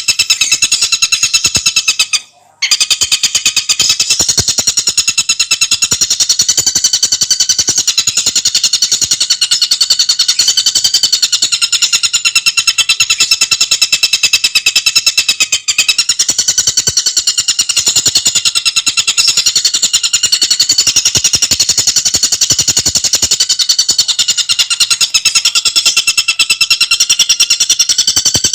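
Tengkek buto bird singing a fast, dense trilling song of rapid sharp high notes, broken by a short pause about two seconds in.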